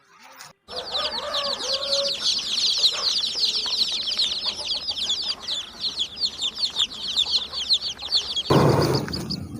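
Chickens: a dense chorus of rapid, high peeping chirps, many per second, with a few low clucks under it near the start. About a second before the end it cuts to a louder, lower animal call.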